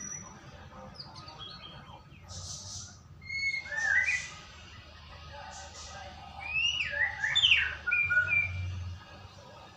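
White-rumped shama singing: varied whistled notes that slide up and down, mixed with a few short harsh hissing notes, in two main bursts, around 3.5 s in and from about 6.5 to 8.5 s, the loudest near the middle of the second burst.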